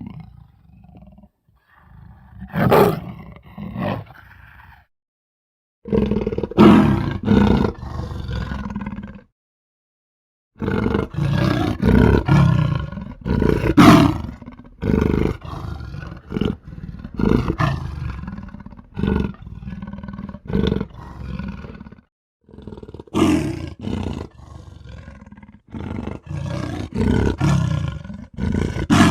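A series of monster roar and growl sound effects, big-cat-like roars, some single and some in rapid runs, separated by a few short silences.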